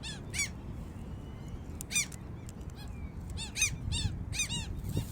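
Gulls calling: a run of short, high, arched cries, one or two at a time, over a low steady rumble.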